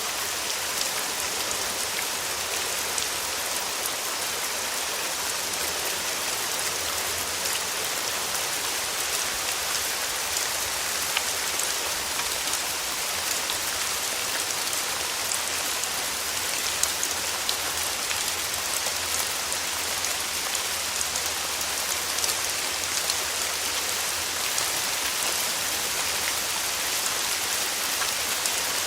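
Steady summer rain: a continuous hiss of rainfall with many small drops pattering and ticking on surfaces.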